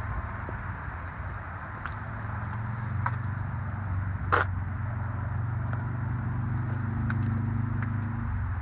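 A vehicle engine running with a low steady hum that grows a little stronger a couple of seconds in, over light wind noise, with a single sharp click about four seconds in.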